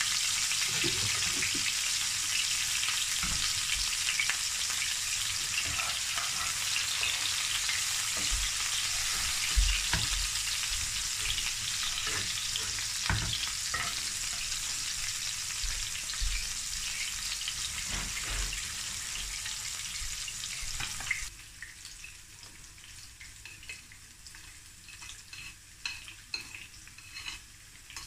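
Red pepper strips sizzling in hot oil in a nonstick frying pan, stirred with a slotted spatula that knocks against the pan now and then. About two-thirds of the way through, the sizzling suddenly drops much quieter, with a few light clicks.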